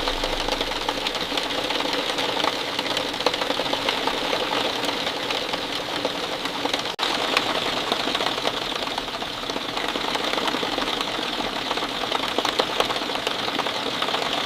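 Steady rain falling, a dense hiss of many close drops pattering quickly. The sound cuts out for an instant about halfway through.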